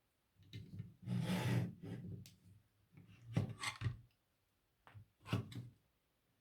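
LEGO plastic pieces being handled: a rustling rattle of loose pieces about a second in, then a few sharp clicks and taps as parts are picked up and pressed together.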